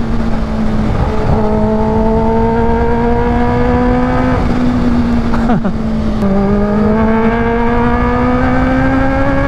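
Kawasaki Ninja H2's supercharged inline-four engine pulling under acceleration. Its pitch climbs steadily and drops sharply at two upshifts, about four and six seconds in, over heavy wind noise on the microphone.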